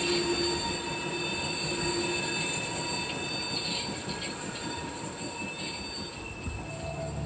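Steam-hauled museum train rolling on the rails with a steady high-pitched squeal of wheel flanges, slowly fading as it moves away.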